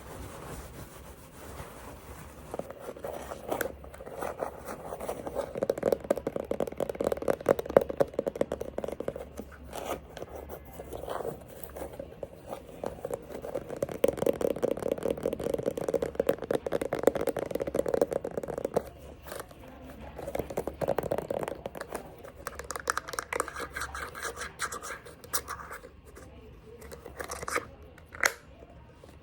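Rapid scratching and tapping on objects, in dense runs of quick strokes that swell and fade, with a few sharp clicks near the end.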